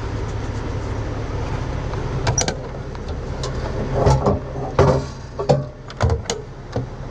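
Heavy diesel truck engine idling steadily, with a series of sharp metal knocks and clanks from about two seconds in.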